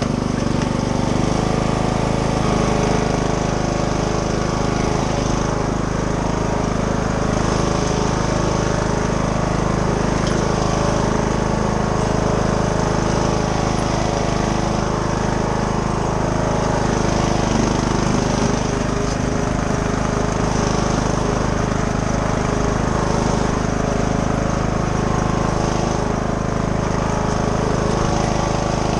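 Small lawn tractor engine running steadily.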